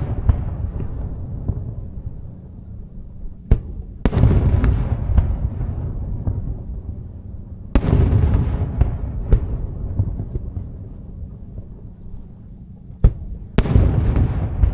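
Aerial fireworks shells bursting: a loud bang about every four to five seconds, twice with a sharper crack half a second before it. Each bang is followed by crackling and rumble that fades over several seconds.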